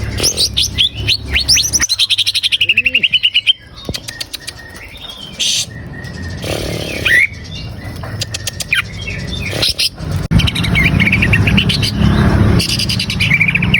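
A cucak ijo, a green leafbird, singing a varied song of rapid chirps, sweeping whistles and trills, pausing briefly partway through, over a steady low hum. It is the kind of song played as a lure to set caged cucak ijo singing.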